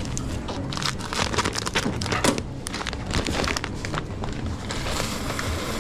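Kitchen work noise: a quick run of clicks and clatter with some rustling, over a steady low hum.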